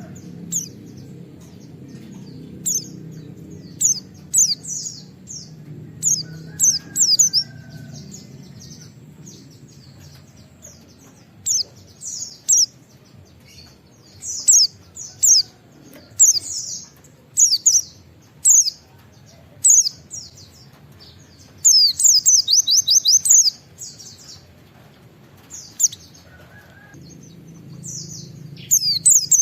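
Pleci (white-eye) singing: short, sharp, high whistled notes in scattered bursts, with a fast run of rapidly repeated 'wit-wit' notes about two-thirds of the way through.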